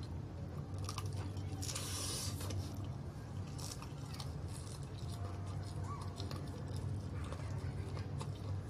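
A person biting and chewing crispy fried chicken close to the microphone: wet chewing with scattered crisp clicks and a louder crunchy burst about two seconds in, over a steady low hum.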